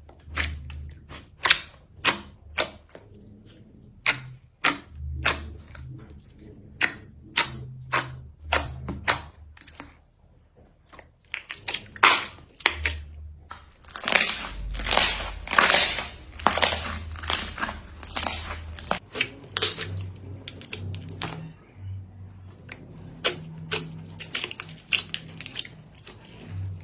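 Slime being squeezed and poked by hand: a string of sharp pops and clicks as trapped air bursts, thickening into a denser crackle about halfway through.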